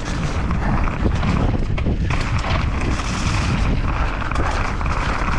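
A mountain bike descending a rough dirt trail at speed: wind rushing over the microphone, with rattling and frequent short knocks from the bike over bumps.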